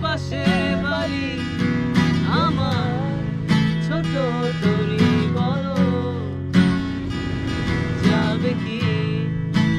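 Acoustic guitar strummed with a voice singing a slow, wavering melody over it.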